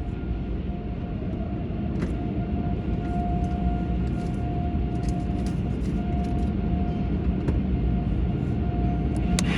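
Car wash tunnel equipment running: a steady low rumble with a constant motor whine over it and scattered clicks and hisses.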